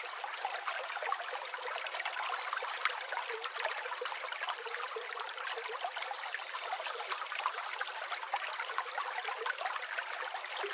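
A river flowing with a steady babbling trickle of many small splashes.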